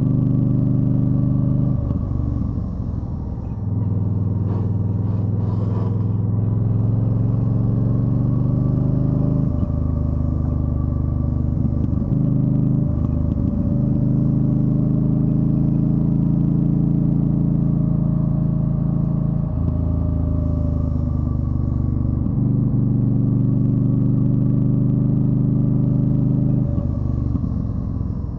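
2013 Yamaha Stryker's V-twin engine running under way, its note stepping up and down several times with short rough breaks between, as with gear changes.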